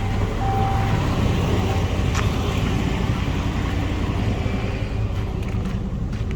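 Gasoline V8 engine of a 2017 Ram 3500 truck idling steadily just after being started. A short beep sounds about half a second in.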